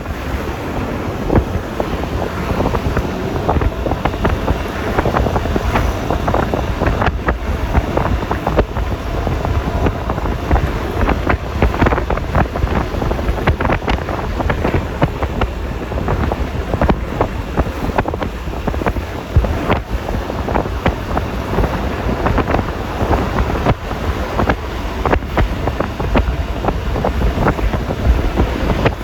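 Wind buffeting the phone microphone on a moving Yamaha Lexi LX 155 scooter, a steady heavy rumble broken by frequent short gusty pops, with the scooter's running engine and road noise mixed in.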